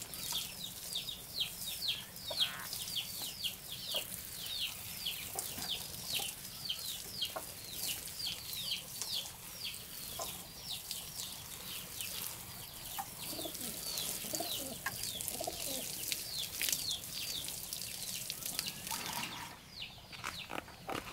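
A bird chirping over and over, two or three short, high, downward-sliding notes a second, over the soft hiss of water sprinkling from a plastic watering can onto plants. The chirping dies away near the end.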